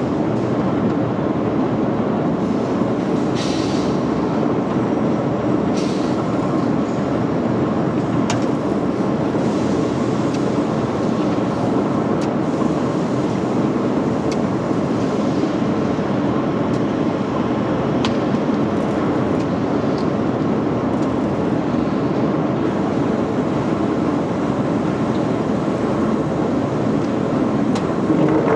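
Steady, loud machinery noise with a few faint clicks and knocks.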